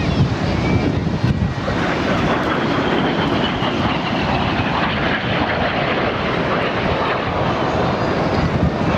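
BAE Hawk jet trainers flying past: a loud, steady rush of jet engine noise, with a faint high whine that slowly falls in pitch over a few seconds.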